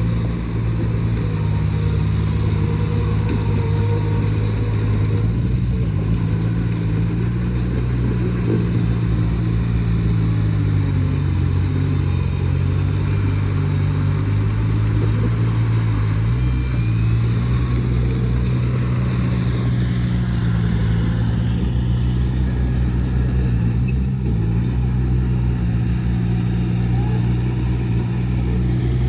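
Heavy diesel engine of earthmoving machinery running continuously, its pitch dipping and recovering a few times.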